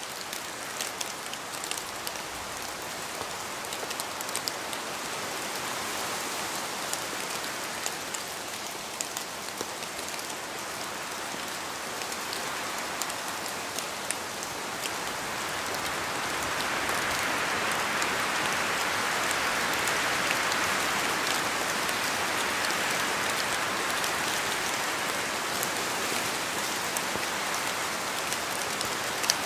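Steady rain falling on a surface, a dense hiss with scattered sharper drop ticks, growing heavier about halfway through.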